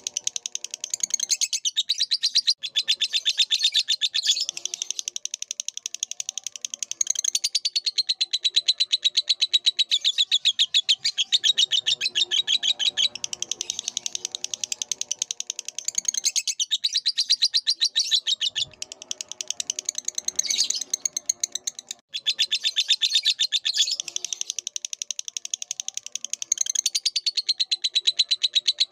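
Lovebird singing a long, rapid, continuous chatter of high shrill notes, broken by a few brief pauses.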